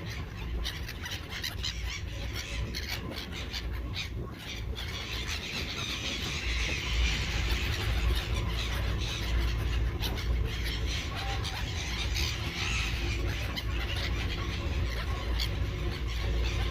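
Many seagulls calling at once, a dense, overlapping chorus of squeals and squawks, over a steady low rumble.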